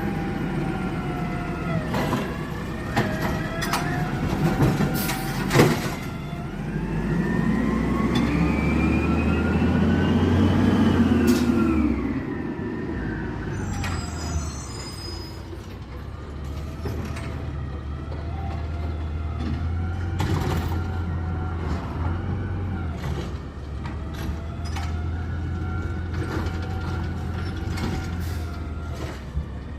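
Garbage truck running, its engine revving up for several seconds about a third of the way in and then dropping back. Sharp clanks and knocks are scattered throughout.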